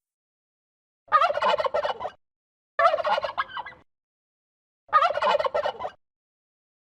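Male turkey gobbling three times, each gobble a rapid rattling warble about a second long.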